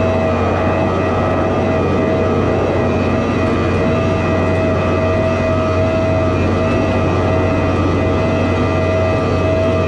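Hino rollback tow truck's diesel engine running with its hydraulic winch drive whining steadily as the winch pulls a vehicle up the bed. The whine holds one steady pitch over a low engine hum.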